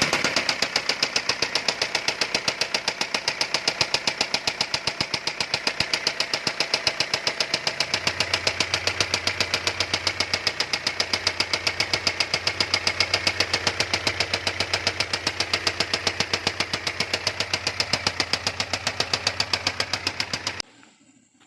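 Worn diesel engine running with a loud, rapid, even knocking. A low steady hum joins in about eight seconds in, and the sound cuts off suddenly near the end.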